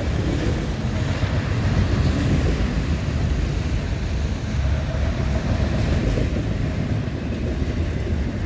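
Freight train rolling past at track side, a steady rumble of wheels on rail.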